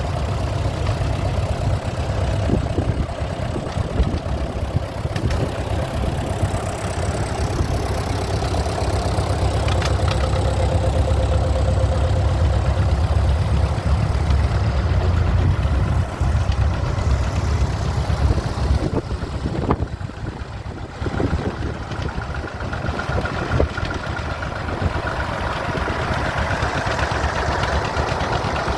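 Tractor engines running at idle, a steady low rumble that grows louder in the middle and dips briefly about two-thirds of the way through.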